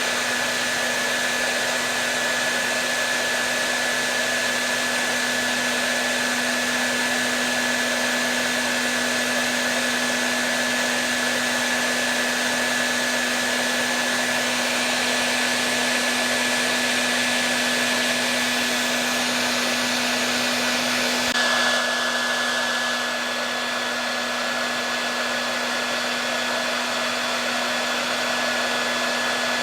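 Electric hair dryer running continuously, a steady rush of air over a low motor hum. About two-thirds of the way through, its sound shifts slightly and becomes a little quieter.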